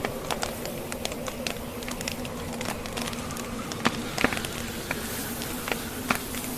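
Wood fire in a fireplace crackling, with frequent irregular sharp pops of burning logs, over a steady low drone.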